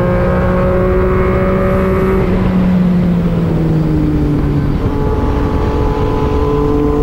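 Big motorcycle engine held at high speed on the open road, under heavy wind rush; its tone sags a little about halfway through, then slowly climbs again.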